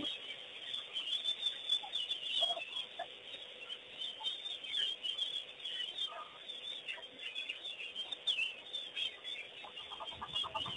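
A chorus of many wild birds calling, with short, high chirps overlapping one another without a break.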